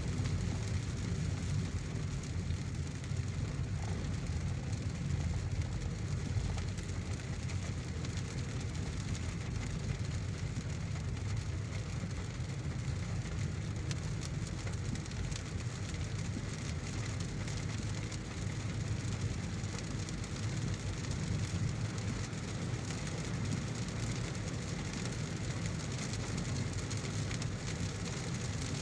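Heavy rain on a moving car: a steady hiss of rain with a constant low rumble from the car on the road beneath it.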